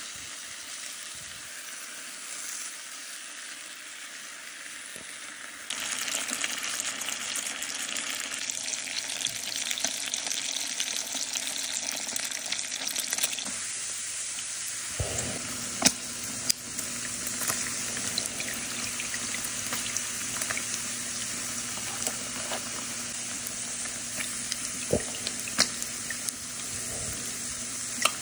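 Food sizzling as it fries in a pan, getting louder about six seconds in, with a few sharp clicks later on.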